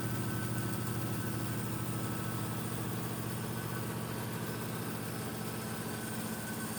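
Restored 1950s Delta Milwaukee Crescent 20-inch bandsaw running under its 3 horsepower electric motor: a steady low hum with a faint higher whine.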